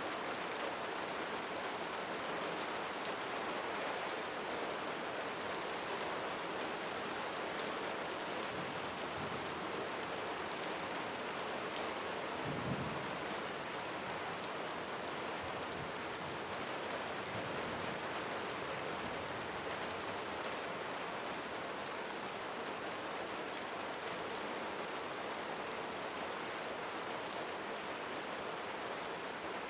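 Steady rain falling on leaves, with scattered individual drops ticking. One brief low thump about twelve seconds in.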